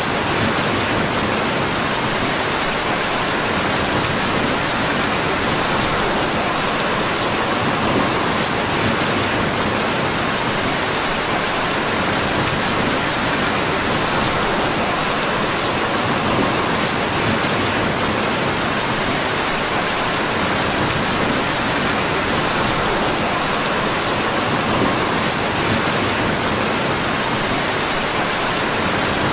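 Steady rain falling, an even, unbroken hiss with a few faint ticks.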